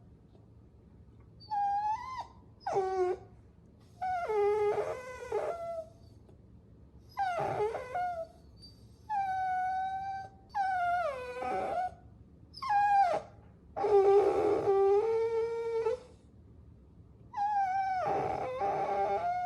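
Puppies whining: about nine high-pitched, drawn-out whines, many sliding down in pitch, in bouts with short pauses between them.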